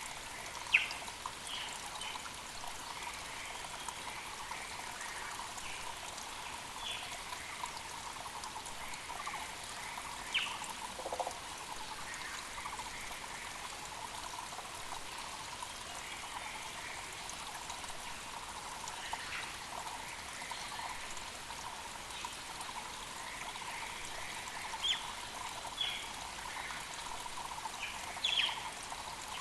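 Mountain creek running and trickling steadily, with short bird calls and chirps scattered over it.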